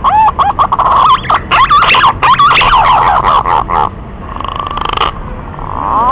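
Green pigeon (punai) calls used as a hunting lure: a quick run of warbling, wavering whistled notes that bend up and down, dying away about four seconds in, with a rising whistled glide starting near the end.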